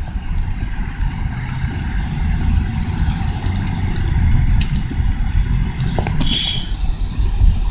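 Subaru Forester driving through deep snow: a steady low rumble of engine and tyres working through the snow, with a few faint clicks and a short hiss about six seconds in, followed by a steady high whine near the end.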